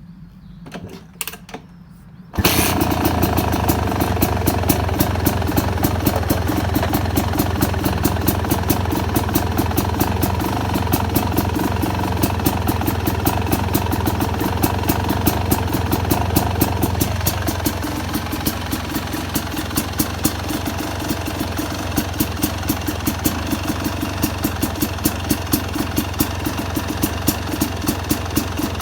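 Yamaha YZ250X single-cylinder two-stroke engine starting suddenly about two seconds in, then idling with rapid, even firing that settles lower about halfway through. It is running with its ignition timing retarded by turning the pulser coil to more delay.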